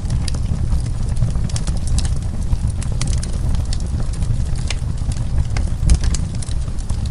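Wood fire crackling, with sharp irregular pops and snaps over a steady low rumble of the burning logs.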